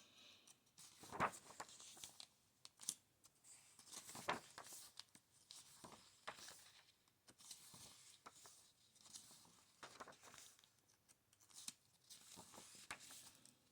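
Pages of a book being turned and handled: faint, repeated paper rustles with light taps every second or so.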